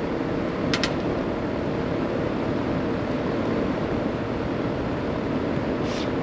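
Steady machine noise, even and unchanging, with a pair of quick clicks about a second in.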